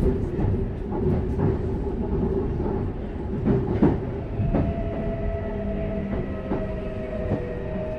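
Interior running sound of a Toei 6300 series subway car. The rumble goes on throughout, with wheels knocking over rail joints several times. From about halfway, steady whine tones come in from its Mitsubishi GTO-VVVF inverter and traction motors.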